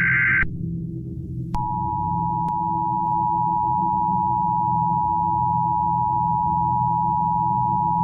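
Emergency Alert System signalling. The last burst of the SAME digital header's warbling data tones cuts off about half a second in. About a second later the two-tone EAS attention signal starts, a steady, harsh pair of tones that announces an emergency message, over a low steady hum.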